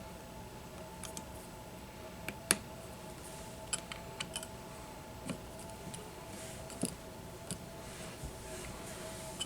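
Scattered small clicks and taps of tools and parts being handled at a workbench, one sharper click about two and a half seconds in, over a faint steady hum.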